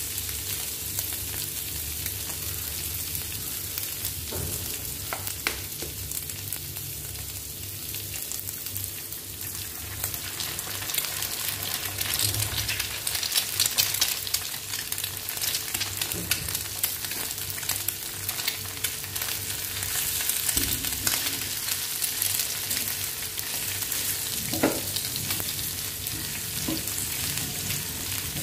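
Chopped pork sisig sizzling and crackling in a hot pan while a wooden spatula stirs it, with a few short knocks. The crackling gets louder about ten seconds in.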